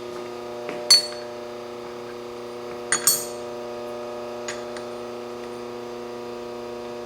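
Machined aluminium part clinking against a cylinder head as it is seated and rocked: two sharp metal clinks, about a second in and about three seconds in, with a few lighter ticks. A steady electrical hum runs underneath.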